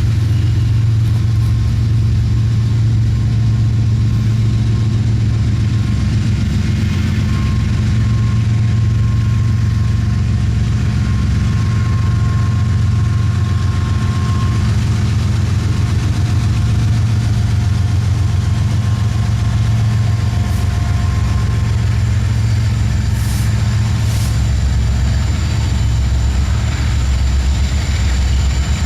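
A heavy engine idling steadily with a deep, even hum.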